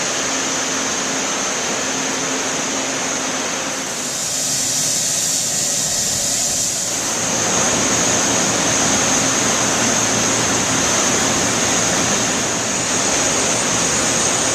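Steady loud rush of HVAC air-handling equipment, with a faint high whine and a low hum running through it; the tone of the rush shifts for a few seconds around the middle.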